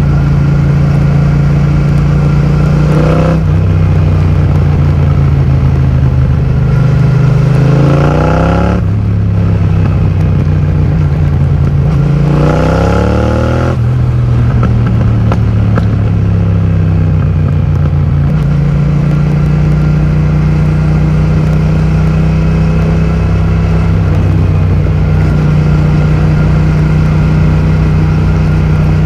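2020 Yamaha MT-07's parallel-twin engine running loud through an Akrapovic full titanium exhaust with the dB killer removed. It holds a steady pitch for most of the time and climbs in pitch twice under acceleration, about a third of the way in and again near halfway.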